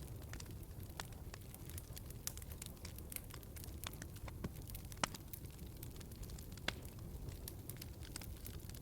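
Wood fire in a fireplace crackling: a low steady rumble of burning with irregular sharp pops and snaps, the loudest about five seconds in and again a little before seven seconds.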